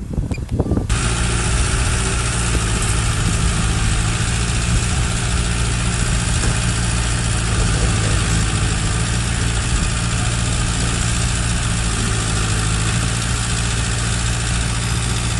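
Wind buffets the microphone for about a second, then cuts abruptly to a heavy machine's diesel engine running steadily at low revs.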